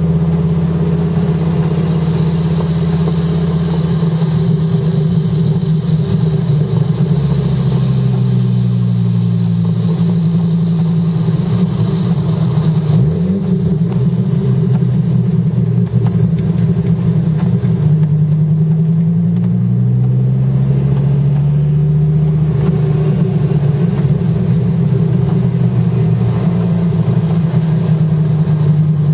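Dodge Viper GTS's V10 engine heard from inside the cabin, running steadily. About a third of the way in its note dips lower, and after a while it climbs back up and holds steady again.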